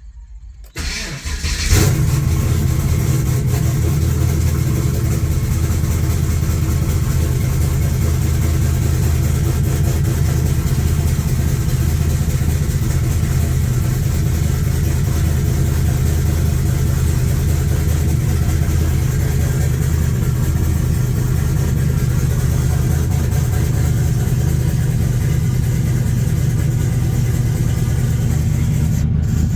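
Pontiac G8 GXP's cammed LS3 V8 (TSP F35 camshaft) being started: a brief crank that catches about two seconds in with a short flare in revs, then a cold-start idle that runs steadily with a deep rumble.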